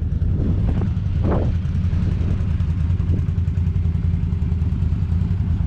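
Quad bike engine running steadily with a low, even hum.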